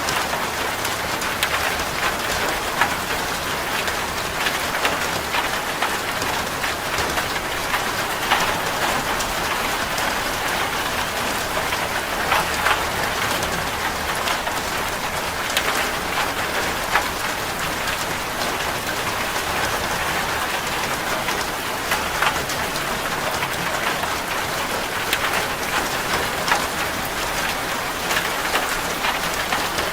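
Steady rain drumming on a corrugated zinc roof: a constant wash of patter with many sharp individual drop ticks throughout.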